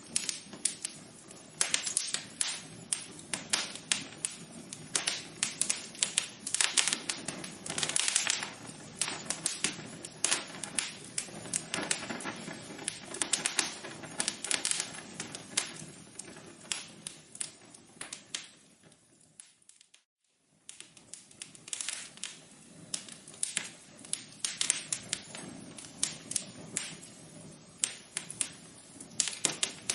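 Fireplace fire crackling, with dense irregular pops and snaps over a soft hiss. About two-thirds of the way through it fades almost to nothing for a second, then comes back.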